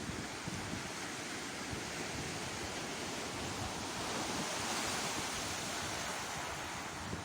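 Sea waves breaking and washing on the shore, a steady surf hiss that swells about four to five seconds in, with wind buffeting the microphone.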